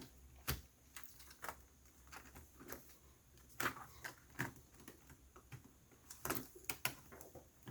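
Faint, scattered plastic clicks and taps as a replacement laptop keyboard is pressed and worked into the chassis under its retaining tabs.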